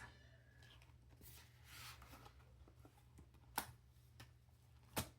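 Quiet handling of paper cash and binder pages, faint rustling, with two sharp clicks about a second and a half apart near the end.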